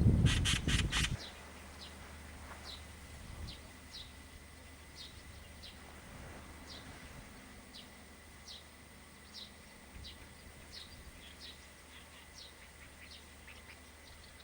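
Faint, short, high bird calls repeating irregularly, one every half second or so, after a burst of low rumble with a few harsh rasping notes in the first second.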